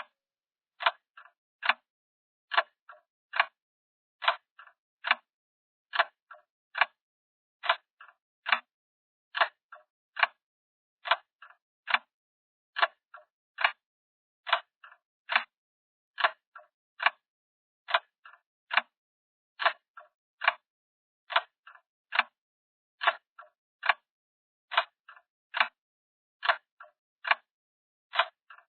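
Clock ticking sound effect: sharp, even ticks a little faster than one per second, each followed by fainter small clicks.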